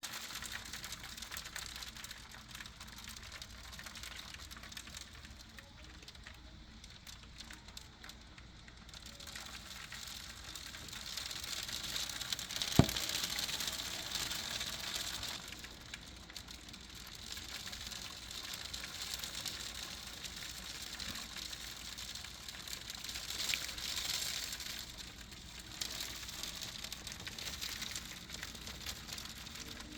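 Hailstones pelting surfaces in a hailstorm, a dense pattering rattle that swells and eases. One sharp knock stands out about halfway through.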